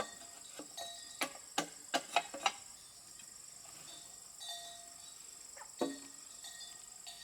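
Scattered light knocks and taps of wood being handled, a quick cluster in the first two and a half seconds and another about six seconds in, over a steady high drone of insects.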